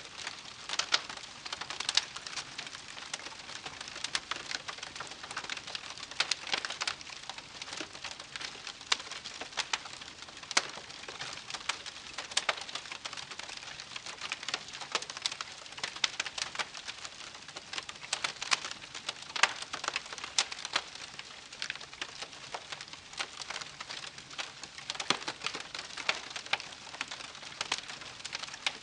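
Wood fire crackling: a steady hiss with dense, irregular sharp pops and snaps from the burning wood, some much louder than the rest.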